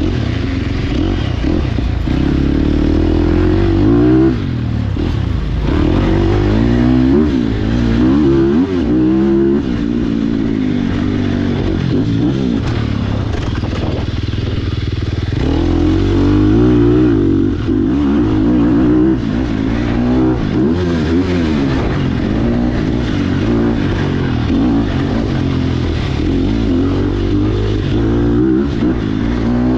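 Sherco SEF300 four-stroke single-cylinder enduro motorcycle being ridden hard, its engine revving up and dropping back again and again as it accelerates, shifts and backs off.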